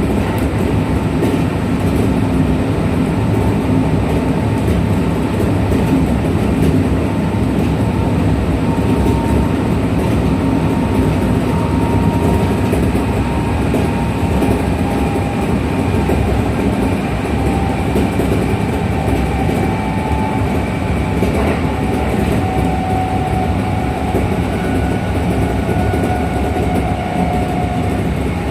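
Kintetsu 1233-series electric multiple unit running, heard from inside the car: a steady, loud rumble of wheels and running gear, with a faint motor whine that slowly falls in pitch. This formation, VE46, is singled out as one that makes an unusual noise compared with an ordinary 1233-series unit.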